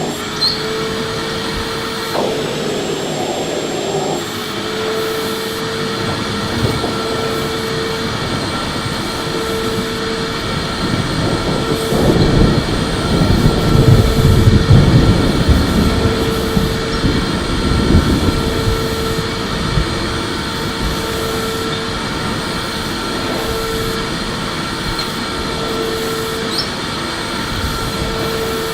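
Electric vacuum cleaner running continuously: a steady rushing whir with a held motor hum. It grows louder and rougher for several seconds in the middle, then settles back.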